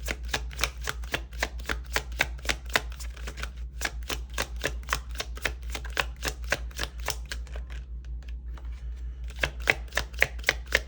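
A deck of tarot cards being shuffled by hand: quick, regular slaps of the cards about four or five times a second, easing off briefly near the end and then picking up again louder. A steady low hum lies underneath.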